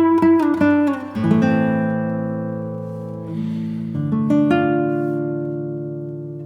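Acoustic guitar music: a few quick plucked notes, then strummed chords left to ring and fade.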